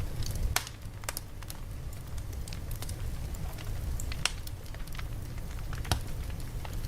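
Campfire crackling: sharp, irregular pops and snaps over a steady low rumble.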